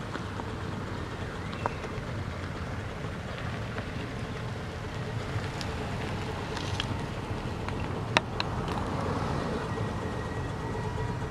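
15-inch gauge live steam 2-6-0 locomotive and its train running, a steady rumble and hiss with scattered sharp clicks, the loudest about eight seconds in.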